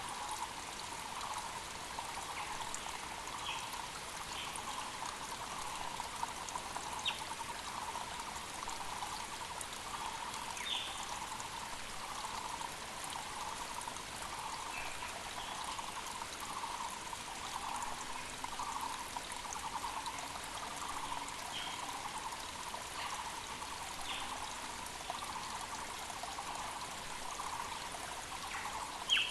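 A mountain creek flowing steadily, with a Muller's barbet repeating a low call note about once a second and other birds giving short high chirps now and then.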